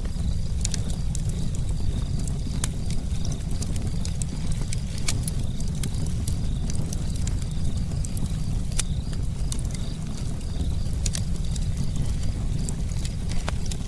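Crackling campfire: a steady low rumble of burning wood with irregular sharp pops and snaps scattered through it, a handful of them louder than the rest.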